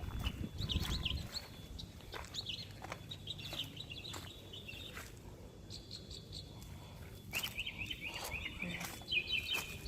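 Small birds chirping in quick repeated bursts, busiest in the last few seconds, with a low rumble at the start.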